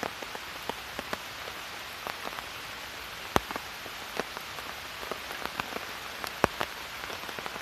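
Steady, heavy rain pattering on the tarp overhead: a constant hiss of falling rain with many separate drop taps, two of them louder, about three and a half and six and a half seconds in.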